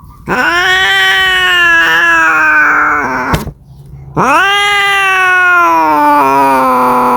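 A cat yowling: two long, drawn-out caterwauls, each rising at the start and then sagging slowly in pitch, with a sharp click in the short gap between them. The kind of yowl a cat makes when calling for a mate.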